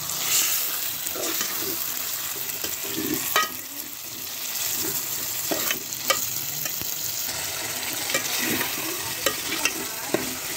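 Chicken pieces sizzling as they are sautéed in oil and masala in a metal pot, stirred with a metal spoon. A few sharp clinks of the spoon against the pot come through the steady sizzle.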